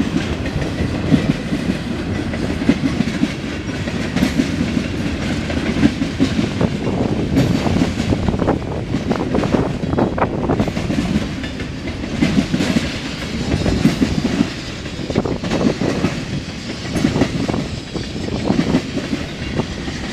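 CSX mixed freight train's cars rolling past, a steady rumble of wheels on rail with irregular clanks and clattering knocks as the wheels run over the rail joints.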